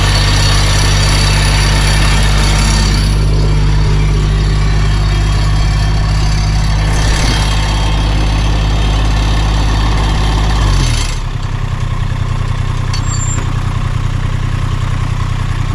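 A vehicle engine running steadily under load, pushing the tractor. About eleven seconds in it drops to a lower, quieter, idling note.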